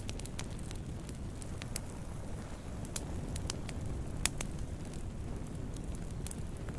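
Wood fire burning with a steady low rumble and irregular sharp crackles and pops, the loudest pop about four seconds in.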